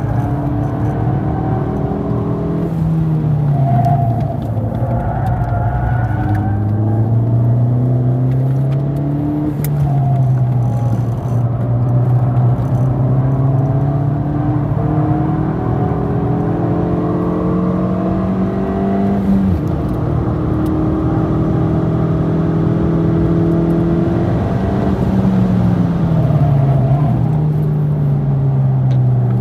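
Ford Fiesta ST Mk7's turbocharged 1.6-litre four-cylinder, its exhaust resonator deleted, heard from inside the cabin while driven hard on track. The engine note climbs with the revs and drops back several times, once sharply on a gear change about two-thirds in, as the car brakes for corners and accelerates out.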